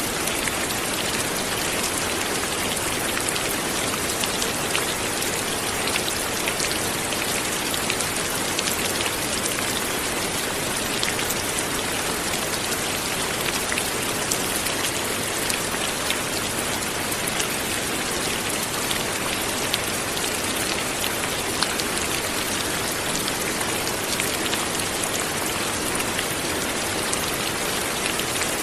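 Light rain falling steadily, a constant hiss with many small drop ticks pattering on a surface.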